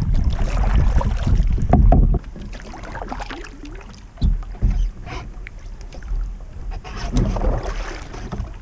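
Canoe being paddled: paddle strokes splashing in the water, with a few short knocks against the hull. Wind buffets the microphone for about the first two seconds.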